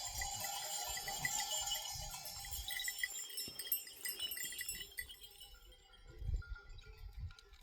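Many small bells on a flock of goats and sheep, jingling and tinkling together and fading out after about five seconds, with low rumbles underneath.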